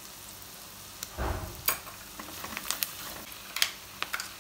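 Spice masala frying in oil in a kadai with a steady sizzle, while a spoon stirs it, knocking once and then clicking and scraping against the pan several times.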